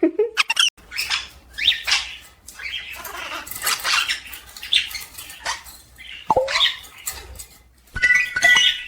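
Pet parrots chirping and squawking in short calls, with clicks and scratchy sounds between them and a brief whistled note near the end.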